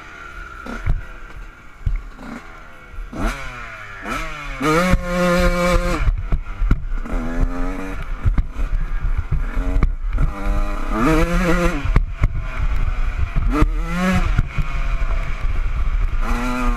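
Honda CR125's single-cylinder two-stroke engine revved hard, its pitch climbing steeply and dropping again over and over as the rider works the throttle and shifts gears, with rattling knocks from the bike and a low wind rumble on the camera.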